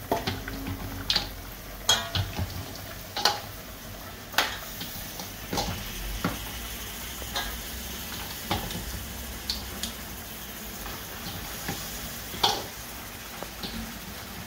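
Pieces of gilbaka fish dropped one by one into hot curry paste in a pot, sizzling, while a metal spoon stirs them. About eight sharp clinks of metal against the pot and the steel bowl come at uneven intervals.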